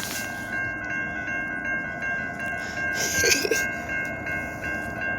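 Railroad grade-crossing bell ringing steadily, about three to four strokes a second, over the low rumble of an approaching freight train, with a brief noisy swish about three seconds in.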